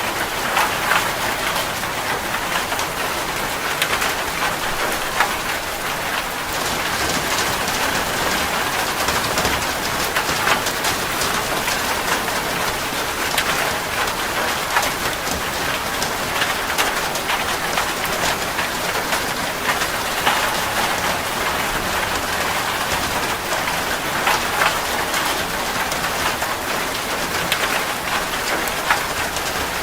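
Steady rain falling on a surface, a continuous hiss dotted with the ticks of individual drops.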